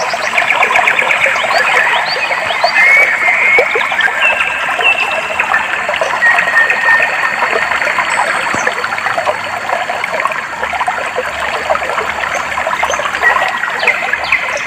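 Clear stream water trickling and babbling steadily, with birds calling over it: rapid trills in the first couple of seconds, then short whistled notes, and a thin steady high note through the middle.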